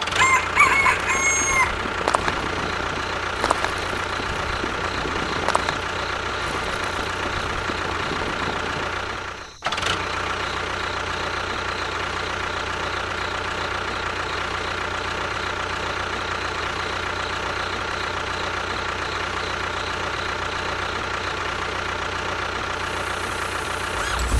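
Small motor of a miniature DIY construction machine running steadily; it drops out briefly about nine and a half seconds in, then runs on unchanged.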